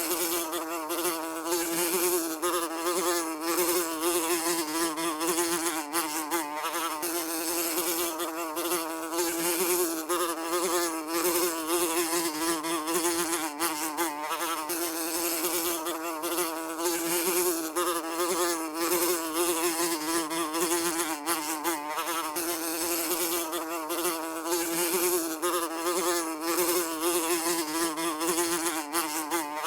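A fly buzzing continuously, a steady wing-beat drone whose pitch wavers slightly up and down without a break.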